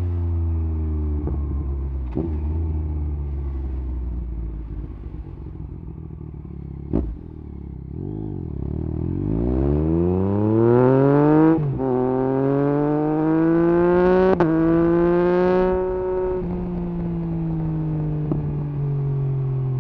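Yamaha MT-09 SP's inline three-cylinder engine through an Akrapovič exhaust with the dB killer removed, heard on the move. It eases off with the pitch falling and a sharp crack about seven seconds in. It then accelerates hard with rising pitch, the pitch dropping suddenly near twelve seconds as it shifts up. It climbs again, then eases off with the pitch slowly falling.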